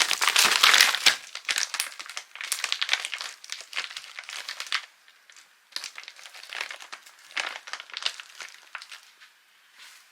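Irregular crinkling and crumpling, like plastic packaging being handled, loudest in the first second and thinning out near the end.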